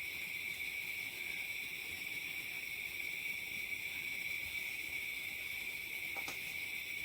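Butter sizzling steadily in a frying pan as stuffed crepes (nalistniki) fry in it, with a faint click near the end.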